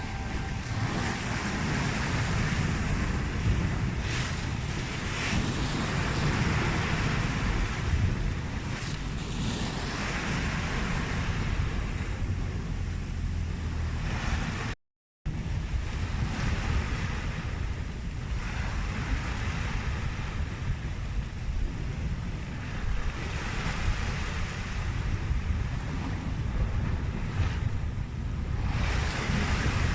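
Sea waves washing in on the shore in slow swells, with wind rumbling on the microphone. The sound drops out completely for a moment about halfway through.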